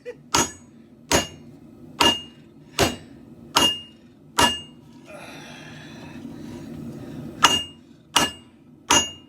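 Hand hammer striking a hot steel katana blade on an anvil, drawing it out flat. There are about nine ringing blows, evenly spaced under a second apart, with a pause of a few seconds after the sixth.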